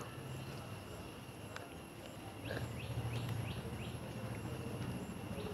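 Outdoor background: a run of short quick bird chirps about two and a half seconds in, over a low steady rumble and a faint steady high-pitched whine.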